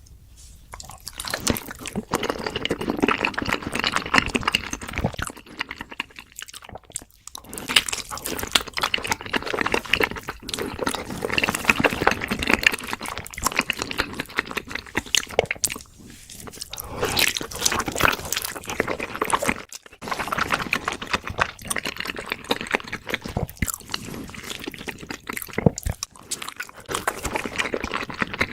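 Close-miked ASMR eating sounds: wet chewing, biting and crunching in dense runs of small clicks, with a few short pauses.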